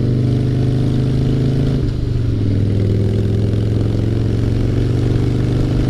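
2003 Harley-Davidson Fatboy's Twin Cam 88 V-twin running loud and steady through Paughco slash-cut drag pipes. About two seconds in, the engine note dips briefly and then picks back up.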